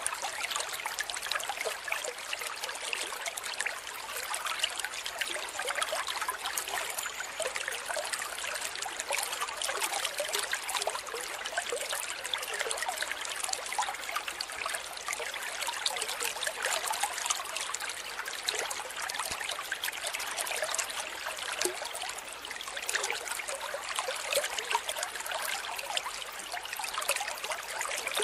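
Water trickling and babbling over stones like a small stream, a steady gurgle.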